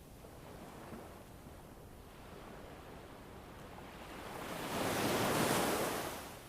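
Winter wind ambience, a steady rushing with one gust that swells and dies away near the end.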